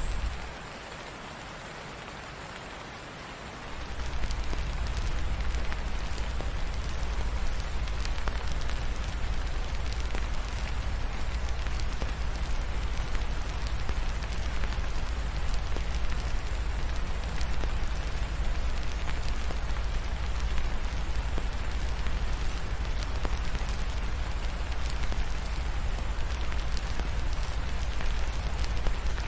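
Steady rain mixed with the crackle of a wood fire over a deep low rumble. The low rumble drops away for about three seconds just after the start, then returns.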